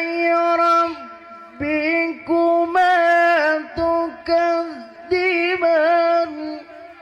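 A solo voice in melodic Quran recitation (tilawah), holding long, high notes and bending them through ornamented turns, in several sustained phrases with short breaks for breath, fading out near the end.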